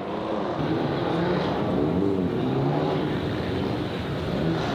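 A car engine being revved in repeated blips, its pitch rising and falling.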